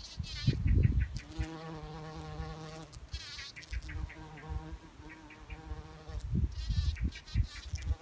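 Insect-like buzzing in two long stretches, with low thumps and brief high chirps before and between them.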